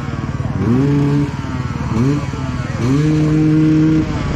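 Racing motorcycle engines revving hard, with the note rising and then holding high three times: briefly about half a second in, again at two seconds, and longest near the end, over the steady rumble of other bikes.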